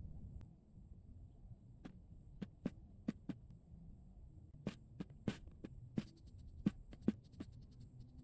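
About a dozen irregular sharp taps and clicks over a low steady hum, starting about two seconds in and ending in a few faint, quick ticks.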